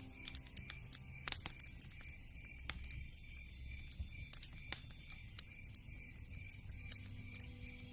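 Wood campfire crackling, with sharp pops at irregular moments, over a steady pulsed high chirping of night insects.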